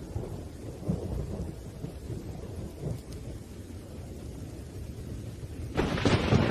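Thunder rumbling low and uneven under rain, then a sharper, louder thunderclap breaking in near the end.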